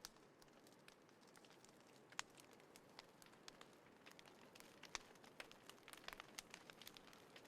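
Wood fire in a small folding fire pit crackling faintly, with scattered sharp pops, the loudest about two seconds and five seconds in.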